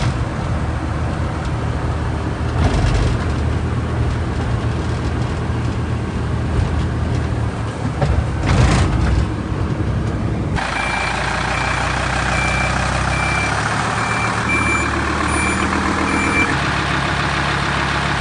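Truck engine running steadily. About ten seconds in the sound changes abruptly, and over the running engine a reversing beeper sounds about twice a second for several seconds.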